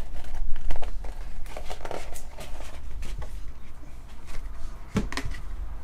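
Faint rustling and a few light clicks of trading cards being handled, over a steady low hum.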